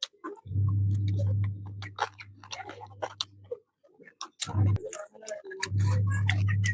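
A person chewing and eating curry with rice: a run of short wet clicks and smacks from the mouth. A steady low hum cuts in and out three times underneath.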